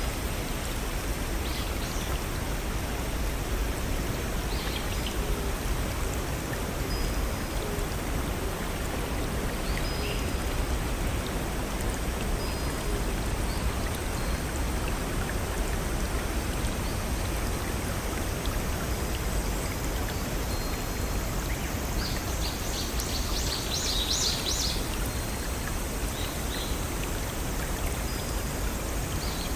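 Steady rush of a small forest stream and waterfall, with a bird giving a quick run of high chirps about three-quarters of the way through and a few faint chirps and short whistled notes elsewhere.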